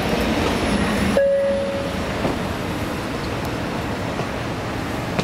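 Tokaido Shinkansen N700-series train heard from inside the passenger car while running: a steady rumble and hiss, with a short steady tone about a second in.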